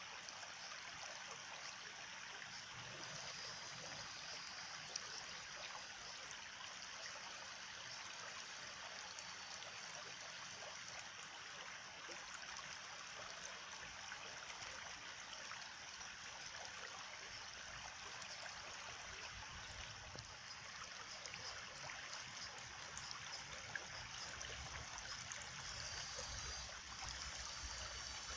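Stream of running water flowing steadily.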